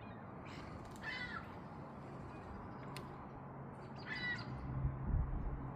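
A bird gives two short calls about three seconds apart. There is a single sharp click in between, and low rumbling near the end.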